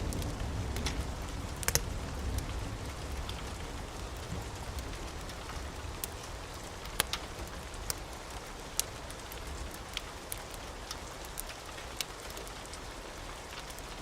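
Steady rain with a wood fire crackling over it: sharp single pops every second or so. A low rumble of thunder dies away over the first few seconds.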